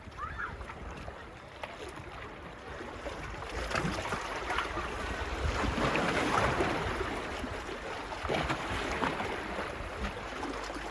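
Small sea waves washing onto a beach, building to a louder wash about halfway through and then easing, with fine crackling of the water and some low wind rumble on the microphone.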